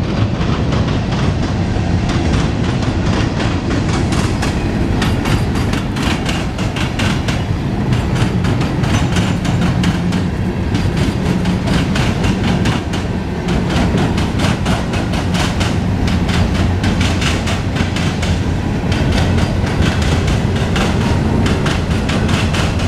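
Freight cars (gondolas and boxcars) of a Norfolk Southern local train rolling past close by while the train backs up, steel wheels clacking over the rail joints in a steady run of clicks over a low rumble.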